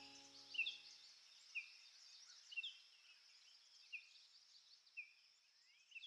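The last sustained notes of music die away in the first second. Then comes faint outdoor ambience: a bird giving short chirps about once a second over a steady faint high hiss.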